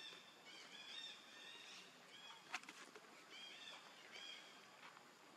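Faint bird calls: runs of short, arched chirps repeated in quick series, with a single sharp click about two and a half seconds in.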